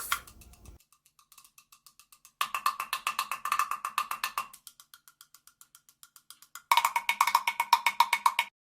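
Wood blocks struck in a fast, even rhythm, switching between soft and loud passages twice, then stopping abruptly near the end.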